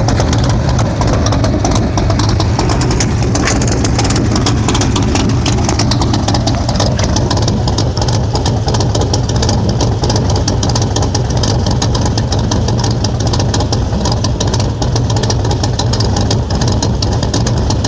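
Loud, steady running of a 1969 Corvette road race car's V8 engine at idle.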